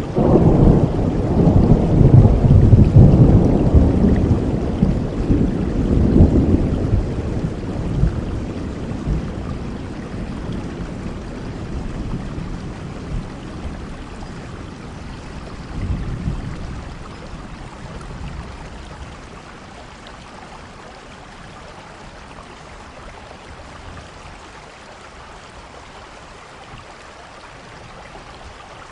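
Steady rainfall with a long roll of thunder over the first several seconds that slowly dies away, and a fainter roll of thunder about sixteen seconds in.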